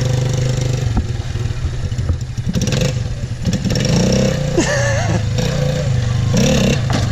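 Small vehicle engine idling steadily.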